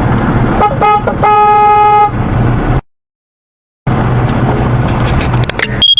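Car horn sounding two short toots and then one longer honk, over steady road and engine noise. The sound cuts out for about a second and comes back as road noise with a low engine hum.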